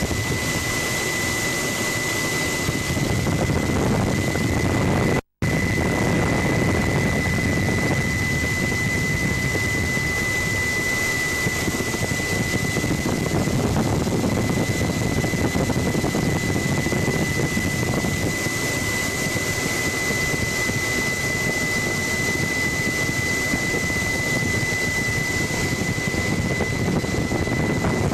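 Helicopter in flight heard from inside the cabin: a steady loud rumble and rush with a thin, steady high whine over it. The sound drops out for an instant about five seconds in.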